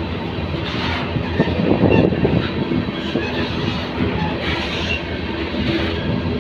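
Ferromex freight train rolling past, steel wheels running over the rails with a steady rumble and some clickety-clack.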